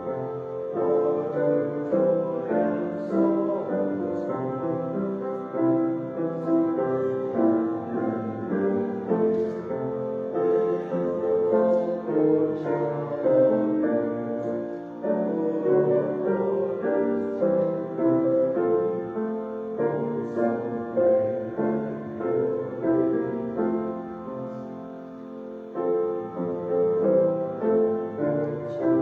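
Piano music: notes and chords played continuously, with a brief softer passage near the end.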